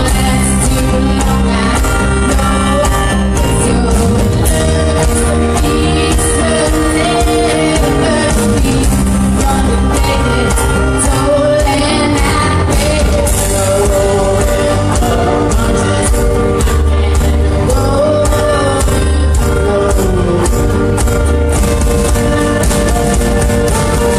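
A band playing a song with a lead vocal over a steady, loud bass and drums.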